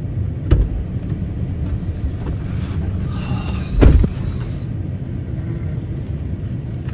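Steady low rumble of road noise inside a moving vehicle, with two sharp thumps, one about half a second in and one near four seconds.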